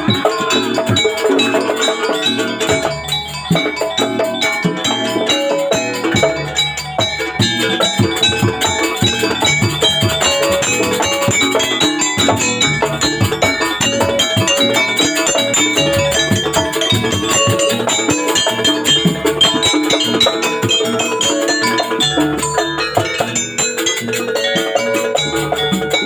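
Live jaranan accompaniment music: tuned metal percussion playing short repeated notes over steady drumming.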